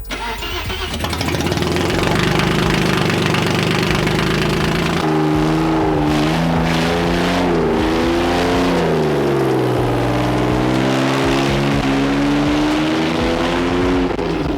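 Audi A4 B5 2.8 V6 engine running loud through a straight-piped exhaust while driving, its pitch rising and falling several times as it revs up and drops back.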